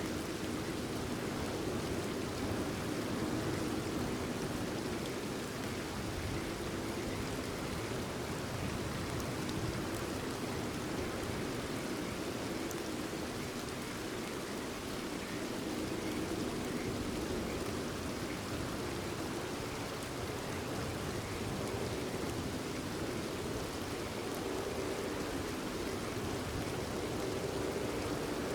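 Steady, unbroken rain falling, an even hiss of drops with no change in strength.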